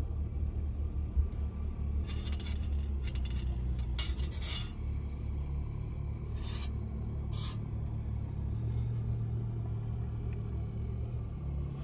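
Steady low rumble of an idling vehicle engine. Over it come a few short rustling, scraping noises and sips of tea from a metal mug, the clearest about six and a half and seven seconds in.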